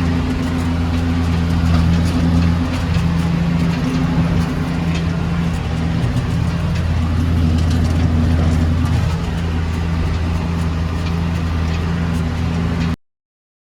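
Diesel tractor engine running steadily under load while pulling a seed drill, heard from inside the cab; it cuts off suddenly near the end.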